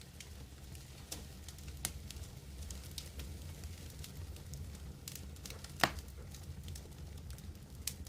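Wood campfire crackling, with scattered sharp pops over a steady low rumble; the loudest pop comes a little before six seconds in.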